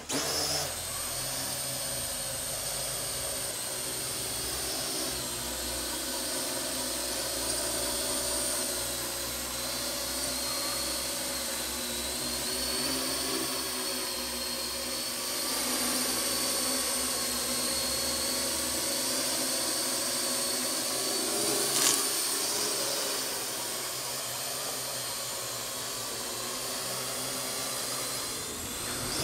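Parrot AR.Drone 2.0 quadcopter in flight, its four electric motors and propellers whining steadily, the pitch drifting up and down as the motor speeds adjust. A brief sharp click about three-quarters of the way through.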